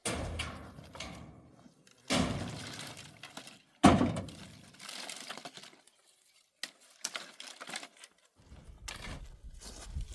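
Dry branches and sticks being snapped and handled: three sudden cracking crashes, the loudest about four seconds in, then smaller scattered cracks.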